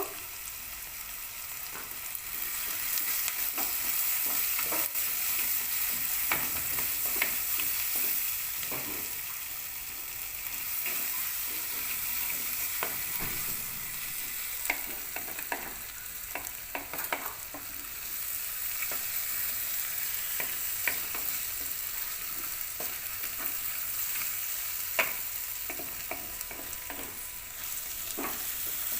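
Brinjal and spices frying with a steady sizzle in a clay pot, while a spoon stirs them with frequent scraping and knocking against the pot.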